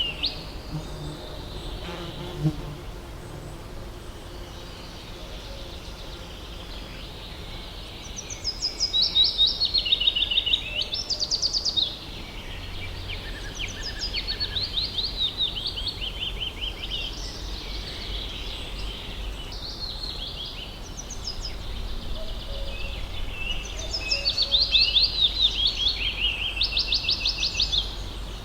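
Forest ambience: repeated series of rapid, high-pitched chirping trills, loudest about a third of the way in and again near the end, over a faint low rumble.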